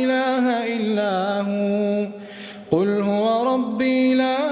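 Male Quran reciter chanting in melodic tajwid style, holding long drawn-out notes. About two seconds in he breaks off for a short breath, then the chant resumes.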